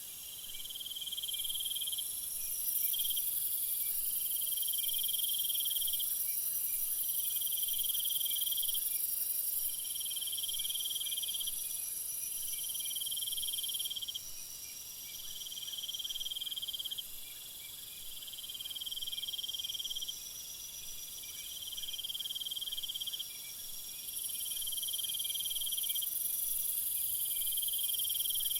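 Insects chirring in a steady chorus: a trill about a second and a half long repeating roughly every two seconds, over a constant high-pitched hiss.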